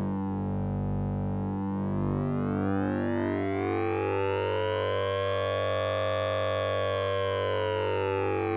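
Synthesizer tone from the Orange Vocoder plug-in, made with oscillator sync and ring modulation. Its overtones rise in a slow siren-like sweep to a peak about halfway through, then fall again over a steady low drone.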